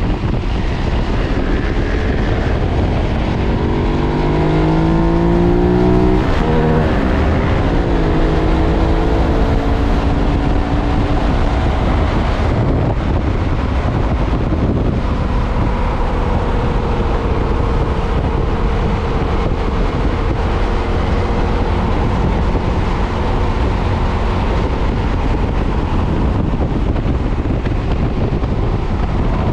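KTM 990's V-twin engine on its stock exhaust, accelerating hard with the pitch climbing through the revs. It shifts gear about six seconds in and pulls up again, then holds steady revs from about halfway. Wind rushes over the microphone throughout.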